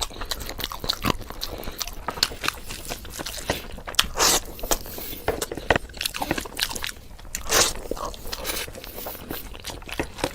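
Close-up eating sounds of a person chewing basmati pulao and mutton curry: irregular wet chewing, lip smacks and bites, with a couple of louder bites about four and seven and a half seconds in.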